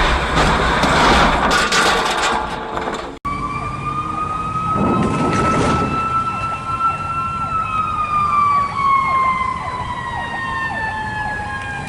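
Loud, noisy vehicle and road noise, then after a cut a siren sounding one long tone, held steady and then slowly falling in pitch, as a mechanical siren does when it winds down. A short noisy burst comes about 5 seconds in.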